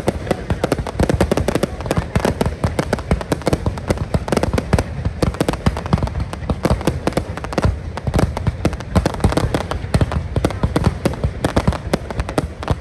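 Fireworks display: a dense, continuous barrage of bangs and crackling bursts, many each second, with deep booms among them.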